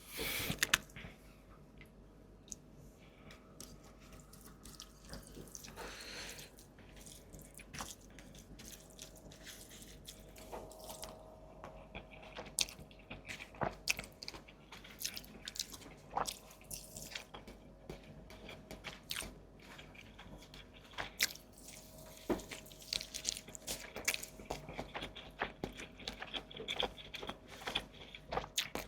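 Close-miked eating sounds: biting and wet chewing, with scattered sharp clicks and smacks that grow busier about ten seconds in. A faint steady hum runs underneath.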